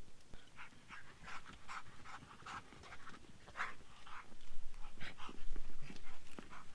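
A dog panting in quick, short breaths, about three a second. From about four and a half seconds in there is a louder low rumble underneath.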